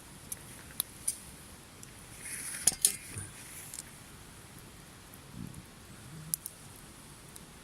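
Campfire crackling, with scattered sharp pops and ticks. About two and a half seconds in there is a brief louder clatter, a couple of sharp clinks close together.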